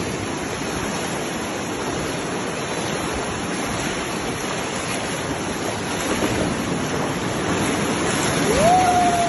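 Steady rush of river water around a bamboo raft. Near the end a single drawn-out high call or whistle rises, holds and carries on.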